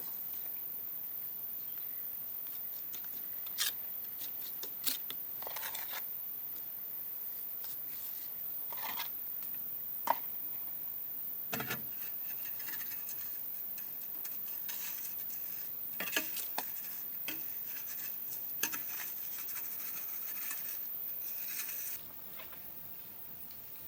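Scattered small clicks, taps and short scrapes of something being handled, over a steady faint hiss that drops near the end.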